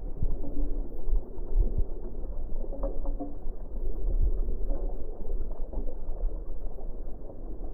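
Low, steady rumbling wind noise on the microphone, heavily muffled, with a few faint brief pitched sounds in it.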